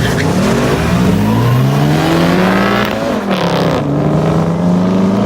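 Car engine accelerating hard at full throttle: its pitch climbs for about three seconds, drops sharply at a gear change, then climbs again.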